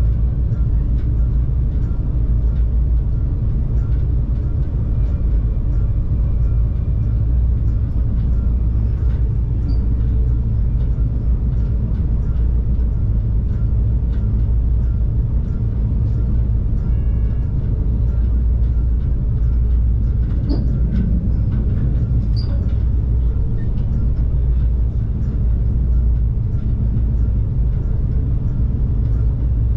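Stadler GTW diesel multiple unit running steadily between stations: a loud, even low rumble of the train in motion, with a couple of brief clanks about two-thirds of the way through.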